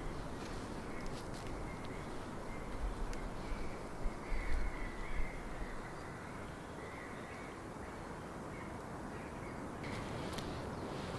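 A bird calling over steady outdoor background noise, with a brief low rumble about four seconds in.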